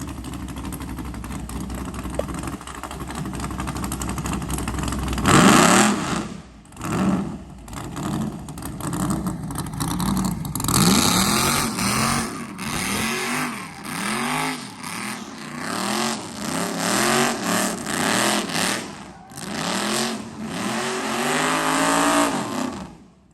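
A car engine running steadily, then revved over and over with quick throttle blips from about five seconds in, the pitch rising and falling with each rev.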